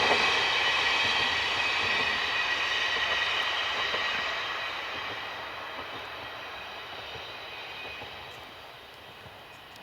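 JR Shikoku KiHa 32 diesel railcar running away into the distance. Its noise fades steadily, with high steady tones over the rumble fading along with it.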